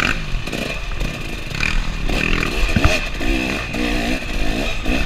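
KTM 300 two-stroke dirt bike engine revving up and down over and over, its pitch rising and falling with each blip of the throttle.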